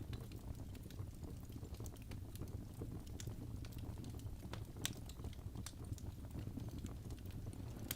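Wood fire crackling in a fireplace: a steady low rumble of flames under frequent small pops and snaps, with one sharper pop about five seconds in.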